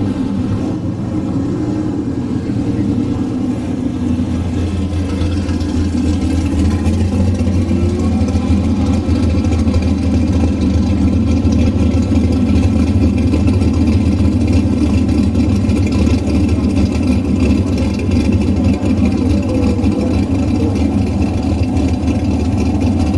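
V8 engines of drag cars idling as they roll slowly past, a steady low rumble. It grows louder about five seconds in as a Pontiac GTO drag car comes alongside.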